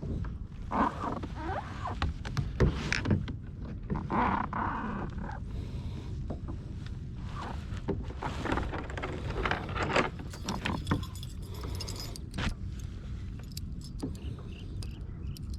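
Steady low rumble of wind and water on the microphone aboard a fishing kayak, with scattered small clicks and knocks of gear being handled.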